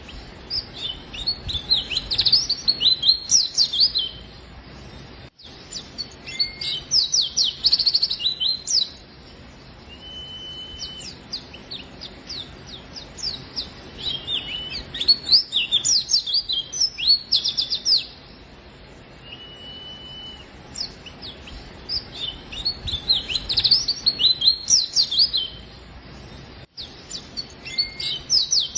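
A white-eye (pleci) singing in full voice: bursts of rapid, high twittering chirps lasting a few seconds each, some opening with a short steady whistle, and short pauses between the phrases.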